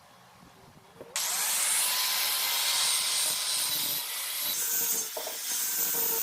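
A power grinder working the steel of a car leaf spring starts abruptly about a second in, giving a loud, steady grinding hiss over a faint motor whine.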